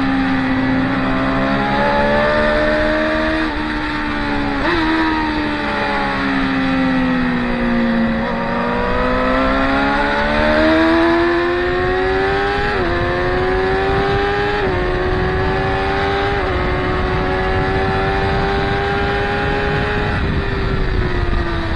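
Track-day motorcycles running hard through a corner. The engine note drops for the first several seconds as they slow, then climbs again with four stepped upshifts as they accelerate away.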